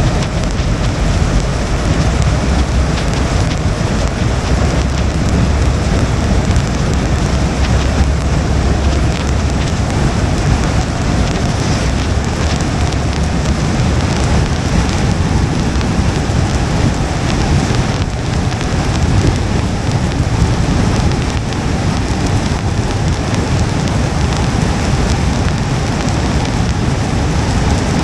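Steady rain pattering on a moving car's windshield and roof over a constant low rumble of tyres on wet pavement.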